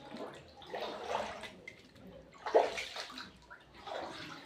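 Water splashing and sloshing in irregular bursts, the loudest about halfway through.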